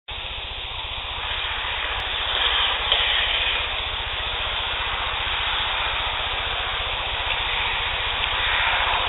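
Playback of an outdoor field-recorder clip: a steady rushing hiss with a low hum underneath, starting abruptly and swelling slightly a few seconds in. Any faint voice-like buzz in the recording is not picked out above the hiss.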